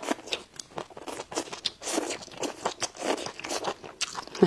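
Close-up chewing of raw wild green onion stalks: a quick, irregular run of crisp, wet crunches several times a second.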